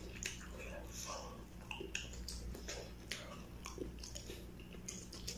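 A person chewing a mouthful of battered, deep-fried egg (kwek-kwek) close to the microphone: soft, irregular mouth clicks and small wet sounds.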